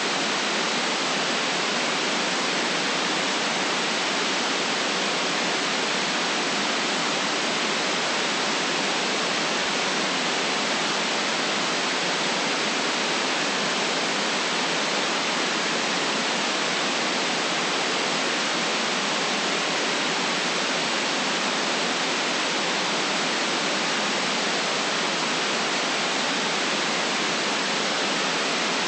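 Steady white noise: an even, constant hiss that never rises, falls or breaks, with no deep bass and no very high treble.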